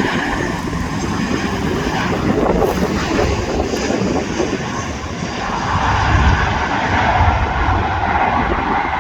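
Jet engine noise from a Boeing 737-800's CFM56 turbofans as the airliner lands, a steady rumble mixed with wind on the microphone. It grows louder about five and a half seconds in.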